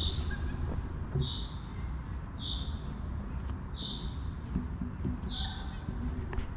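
A bird repeating one short, high call at a steady pace, about once every second and a quarter, over a low rumble.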